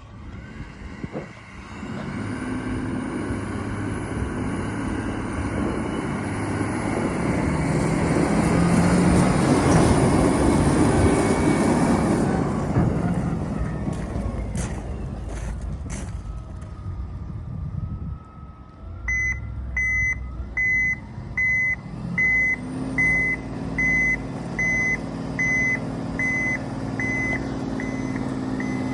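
Terex TA400 dump truck's six-cylinder diesel engine running, rising to its loudest partway through and easing off, with a few sharp clicks. Then the truck's reversing alarm beeps steadily about once a second over the running engine, the sign that it is in reverse.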